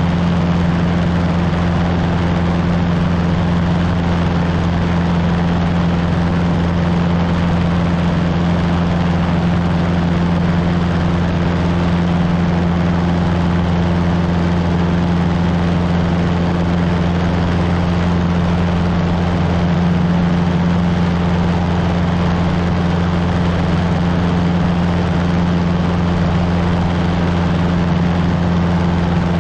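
Cessna 150's four-cylinder Continental O-200 engine and propeller running at a steady power setting: a constant, even drone that does not change in pitch or loudness.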